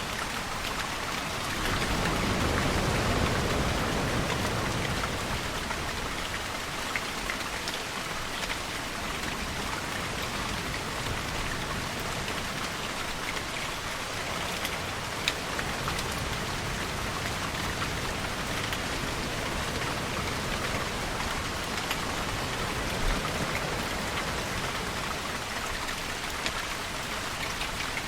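Steady rainfall with individual drops ticking now and then. A louder, lower rushing swell comes about two seconds in and fades by about five seconds.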